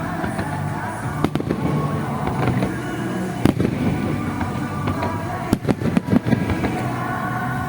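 Fireworks bursting over music, with sharp bangs about a second in, a louder one midway, and a quick cluster of bangs near the end.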